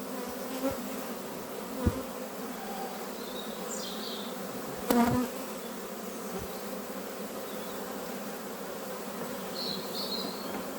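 Honeybees buzzing steadily around an open hive, with a couple of short knocks and one brief louder sound about five seconds in.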